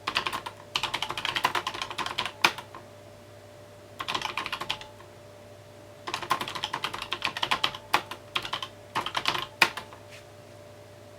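Typing on a mechanical keyboard in quick bursts of keystrokes, broken by short pauses. A few single strokes stand out louder, about two and a half seconds in and near the end.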